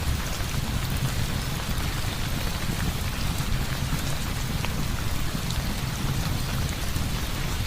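Heavy rain falling steadily, a dense even hiss with scattered small ticks of drops and a steady low rumble underneath.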